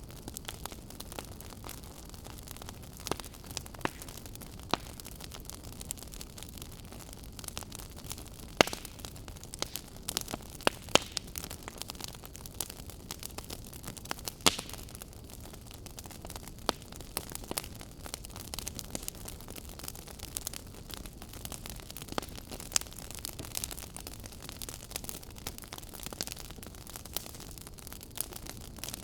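Fire crackling: a steady low hiss with irregular sharp pops and snaps, a few louder pops standing out in the middle stretch.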